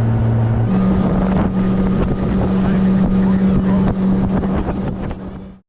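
Duck boat's motor running steadily under way, its pitch jumping higher about a second in, with wind on the microphone; the sound cuts off abruptly at the end.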